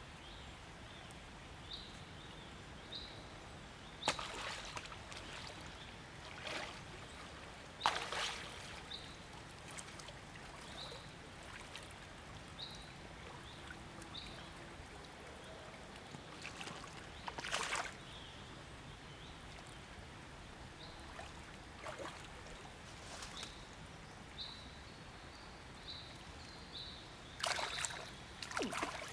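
Water splashing and sloshing several times, loudest about eight seconds in, about seventeen seconds in and near the end, over a short high chirp that repeats every second or two.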